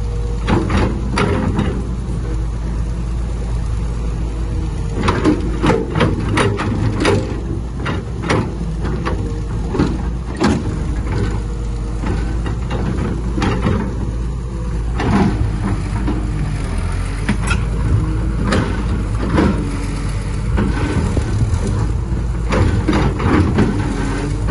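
Heavy diesel earthmoving machinery running steadily, with repeated sharp metallic clanks and knocks at irregular intervals.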